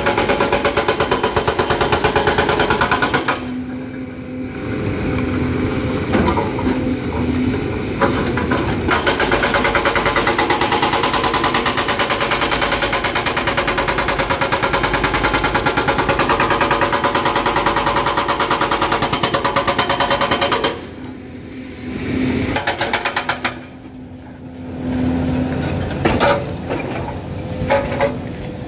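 Excavator-mounted hydraulic breaker hammering hard rock in a rapid, steady rattle of blows. It stops briefly about three seconds in and twice more near the end, leaving the excavator's engine running.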